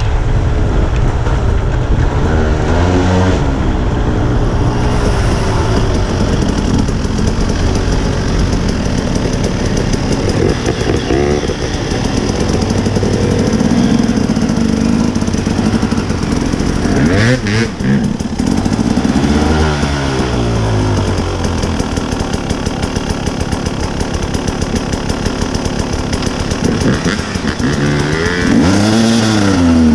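Dirt bike engine running while riding, its pitch rising and falling repeatedly as the throttle is opened and closed. There are sharper revs at several points, most marked a little past halfway and near the end.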